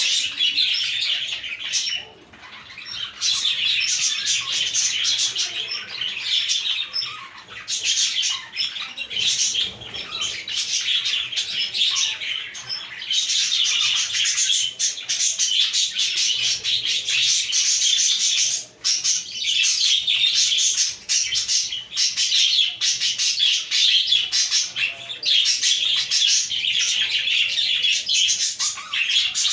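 A flock of budgerigars chattering and chirping together, a dense continuous warble of many overlapping short calls.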